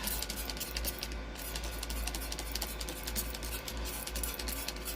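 A brush dabbing and scrubbing rust converter onto a welded steel piece: a quick, irregular run of small taps and scratchy strokes, over a steady low hum.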